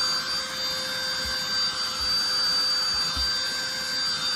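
SIMWAL cordless handheld vacuum cleaner running steadily with a high whine, its nozzle being worked over low-pile carpet.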